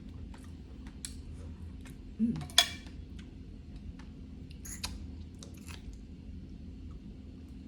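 Close-miked chewing and mouth sounds of a person eating, with scattered small clicks, a brief low hum just after two seconds, and one sharp, loud click about two and a half seconds in.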